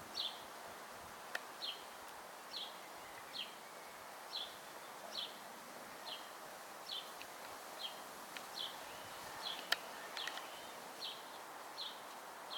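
A small bird calling one short, falling note over and over, a little more than once a second, over a faint outdoor hiss. A couple of sharp clicks come through, one near the start and one past the middle.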